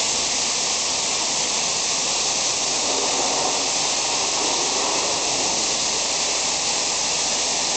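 Pressure washer spraying water, a steady hiss of the jet that holds constant throughout.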